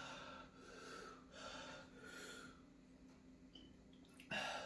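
A man breathing hard in a series of soft puffs, with a sharper, louder breath near the end: his mouth burning from a packet of bird's eye chillies.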